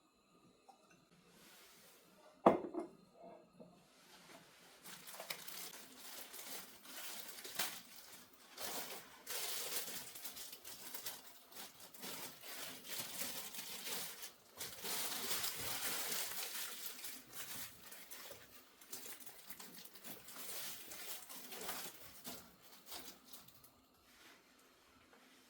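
Household handling noises: a sharp knock, then a long stretch of rustling, crinkling and light clattering of objects being handled.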